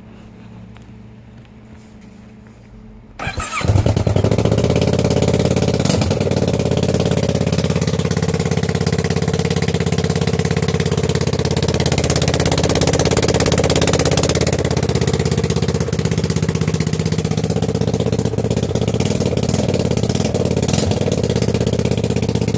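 Kawasaki ER-6 649 cc parallel-twin engine cranked on the starter about three seconds in, catching at once and then running steadily at a near-constant speed.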